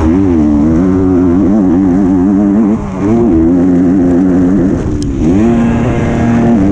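A 125 cc two-stroke motocross bike, heard from an onboard camera, revving hard and rising and falling in pitch as the throttle is worked. The revs drop briefly about three seconds in, then fall and climb again about five seconds in.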